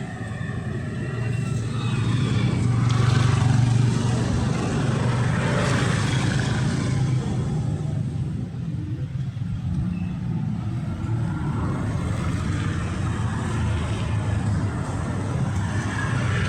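Street traffic with a low engine hum that swells as a vehicle passes about three seconds in, then carries on steadily.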